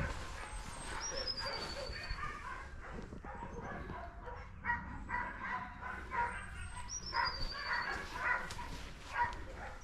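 Several dogs barking and yapping in repeated bursts, the noise of a kennel or shelter full of dogs.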